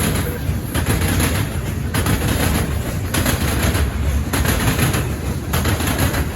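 Potash freight train cars rolling past, steel wheels clattering over the track in a regular rhythm, a burst of clatter about every second over a steady low rumble.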